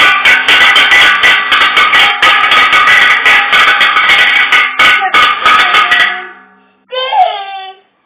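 A musical instrument played loudly and noisily with rapid strokes, which stops and fades about six seconds in. A short sound that bends in pitch follows near the end.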